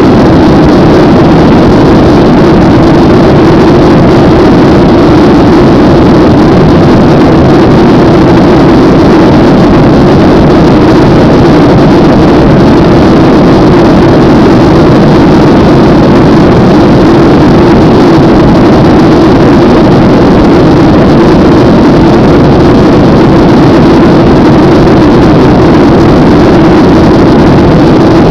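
Airliner cabin noise during the climb after take-off: a steady, loud rush of jet engines and airflow with a low hum running under it.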